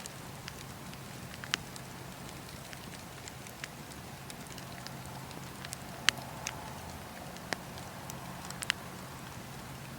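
Wood fire burning in a fireplace, with sharp pops and crackles over a soft steady hiss; the loudest pops come about a second and a half in, about six seconds in and near the end.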